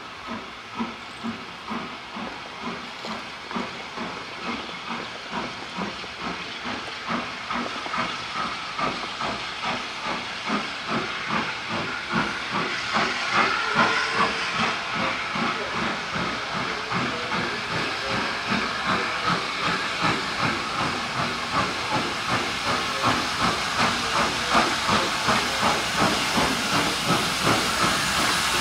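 Steam locomotive 30777 Sir Lamiel, a two-cylinder SR N15 'King Arthur' class 4-6-0, working under steam: a steady chuffing exhaust beat with steam hiss. The beat grows louder and quickens slightly, about two chuffs a second by the end.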